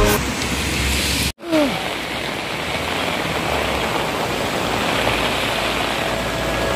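Heavy rain and traffic on a wet city street: a steady rushing noise. A song fades out just after the start, and the sound drops out for an instant about a second and a half in.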